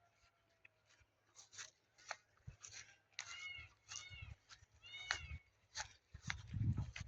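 Cat meowing: a few short, fairly faint calls, with scattered light clicks.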